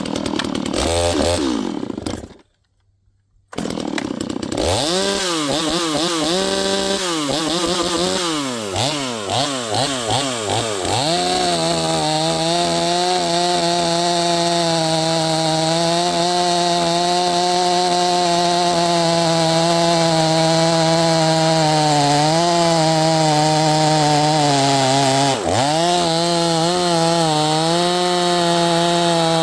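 Neotec NS846 45.4cc two-stroke chainsaw, new out of the box. It runs briefly, goes quiet for about a second, then starts again and is revved up and down in blips. After about eleven seconds it is held at steady high revs, with a couple of short dips near the end. The owner finds that it runs a little rich as it comes from the factory and needs carburettor adjustment.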